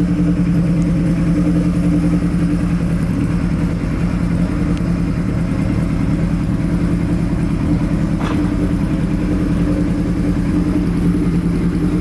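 Kawasaki Z1B's 903 cc air-cooled inline-four idling steadily through SKS short pipes with straight-through silencers. A brief faint click comes about eight seconds in.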